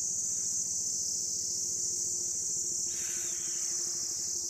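Chorus of insects shrilling steadily, one continuous high-pitched whine.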